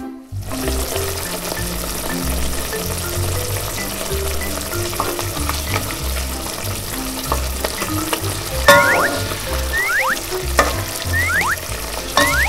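Frying-pan sizzle sound effect, a steady hiss, over children's background music with a bouncing bass line. A few short rising whistle-like tones and light clicks come in the last few seconds.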